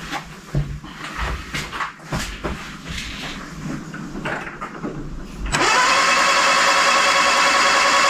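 A few irregular clicks and knocks, then about five and a half seconds in a starter motor kicks in and spins a rebuilt 1311cc A-series engine with its spark plugs out: a loud, steady whir. This is priming cranking, to push assembly lube out of the oil pump and draw fuel through.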